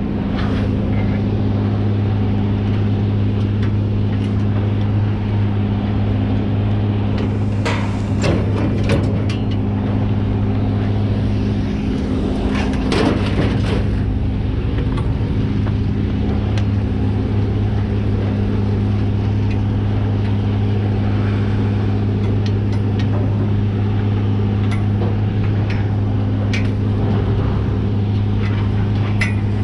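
Pickup truck on the move: a steady engine and road drone, with a few short knocks and rattles.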